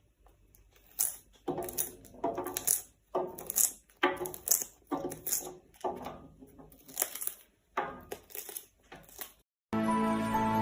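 A parrot crunching a snack in its beak: a series of short, irregular crunches. Music begins about a second before the end.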